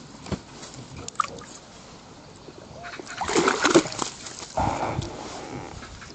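Water splashing and sloshing in two loud bouts about three and four and a half seconds in, from a freshly caught crucian carp thrashing in the water.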